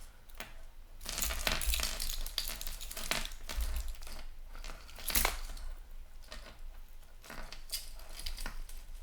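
Tangled fine metal jewelry chains being picked apart by hand: irregular small clinks, scrapes and rustles as the chains and pendants rub and knock against each other.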